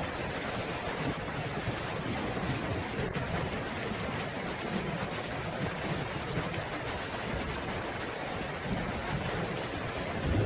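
Steady rain falling, with a low rumble of distant thunder building near the end.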